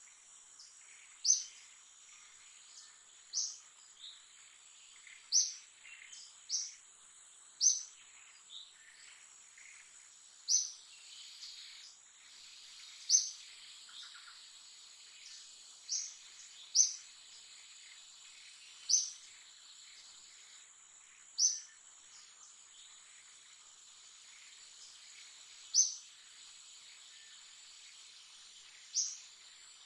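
A bird giving short, high, upward-sweeping chirps, one every one to three seconds, over a steady high-pitched insect drone.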